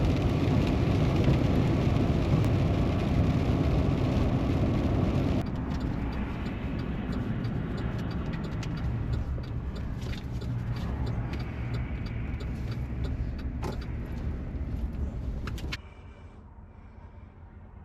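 Car on the road, a steady rumble of engine and tyre noise. It drops abruptly in level about five seconds in, with light ticking over the rest, and falls away suddenly near the end.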